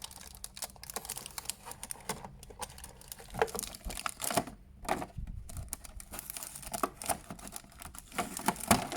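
Packaging crinkling and rustling in irregular handling bursts, with small clicks and taps, as accessories for an action figure are dug out of the box.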